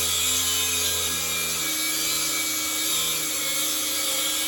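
High-speed power tool grinding metal, a steady whine whose pitch shifts as it bites: shaving down the clutch slave cylinder mounting so its bolt can reach intact threads in the worn bell-housing hole.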